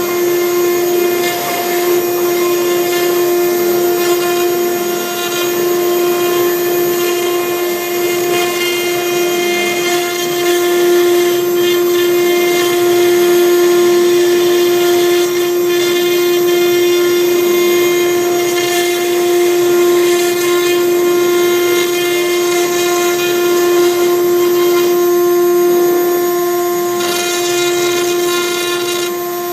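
CNC router spindle running with a steady, unchanging whine while a V-bit engraves MDF, the cutting adding a rough hiss that rises and falls as the bit moves.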